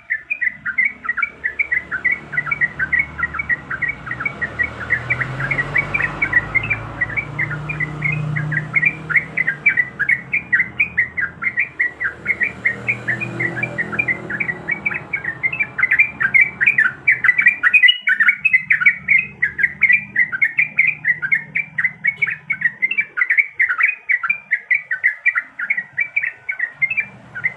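Yellow-vented bulbul (trucuk) calling in a long, rapid rolling run of quick, evenly repeated notes, about four to five a second, without a break.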